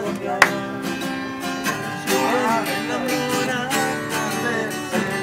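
Acoustic guitar strummed, with a single sharp crack about half a second in and a voice joining in over the guitar about two seconds in.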